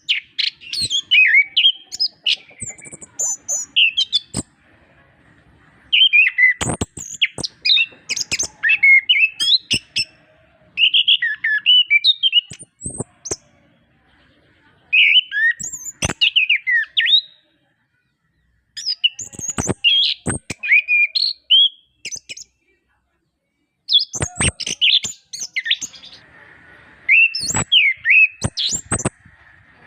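Chestnut-capped thrush singing in bouts of fast, varied chirps and whistles with short pauses between phrases. Sharp clicks are mixed in with the notes.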